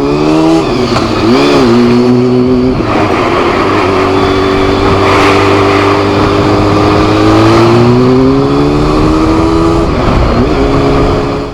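Honda CBR400 motorcycle engine under way, its note mostly steady with a brief dip and recovery about a second and a half in and again near the end, and a slow rise in pitch in between, over heavy wind noise.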